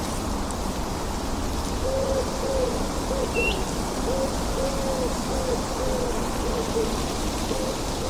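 Steady rain with an owl hooting in a long run of short, low hoots, about two a second, starting about two seconds in. A single brief high bird chirp comes in the middle.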